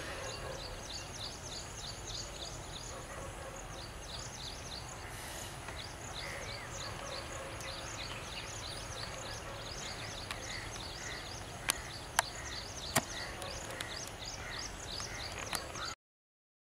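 Small birds chirping rapidly and continuously, with a few sharp clicks near the end; the sound cuts off suddenly at the very end.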